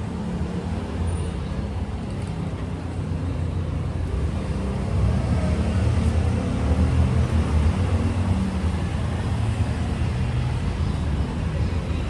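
Busy city street traffic: a steady low rumble of vehicles that grows louder about five seconds in.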